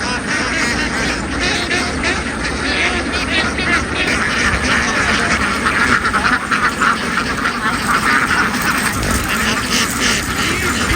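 A large flock of domestic ducks quacking, with many calls overlapping in a continuous din.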